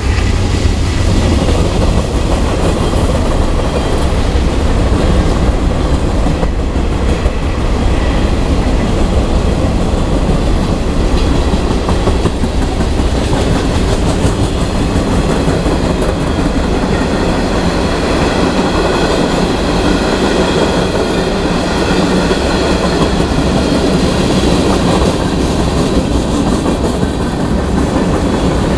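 Freight cars of a long train rolling past at close range: a steady rumble of steel wheels on rail, with clickety-clack over the rail joints. Faint high ringing tones come in over the second half.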